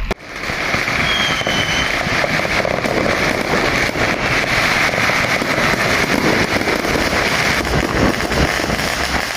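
Strings of firecrackers going off in a dense, continuous crackle, with a short whistle about a second in.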